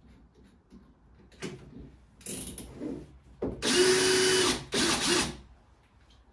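Cordless drill run in several short bursts, the longest just over a second near the middle with a steady motor whine, while drilling a hole.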